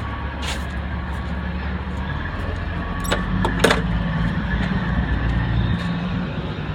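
Opening the school bus hood: two or three sharp metallic clacks about three seconds in, over a steady low engine drone.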